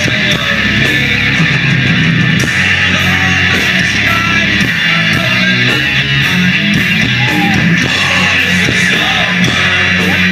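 Live heavy metal band playing loudly: distorted electric guitars over bass and drums, with faint voices mixed in.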